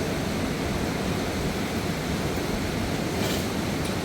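Steady rush of a fast-flowing river, with a brief higher hiss a little after three seconds.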